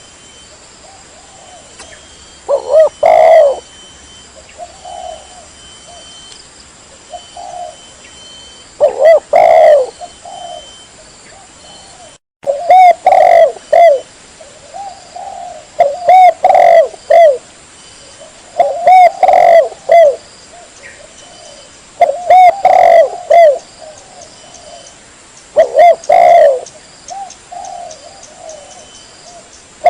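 Spotted dove cooing: loud, clear multi-note coo phrases repeated about every three seconds, with softer coos in between. The sound drops out briefly about twelve seconds in.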